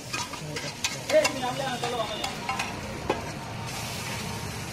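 Oil and food sizzling on a hot flat iron griddle (tawa), with scattered clinks and taps of metal utensils in the first few seconds.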